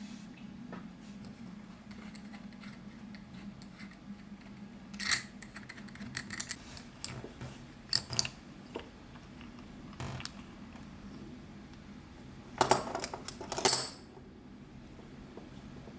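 Small metal parts and tools clicking and clinking on a work surface as an outboard fuel pump is taken apart: scattered single clicks, then a short burst of clatter near the end, over a steady low hum.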